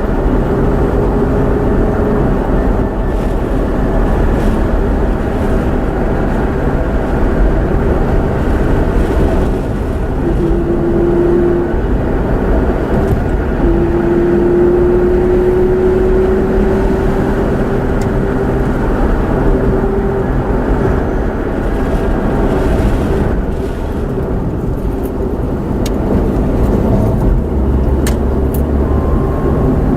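Car moving, with steady engine and road noise. An engine note climbs slowly in pitch from about a third of the way in, as the car gathers speed.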